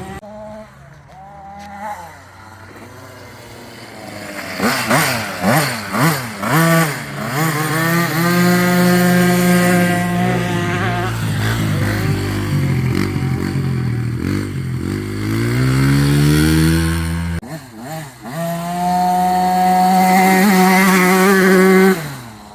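Motocross dirt bike engine revving, with quick throttle blips, then held at high revs, its pitch rising and falling with the throttle and gear changes. It breaks off abruptly about three-quarters of the way through and builds again to high revs.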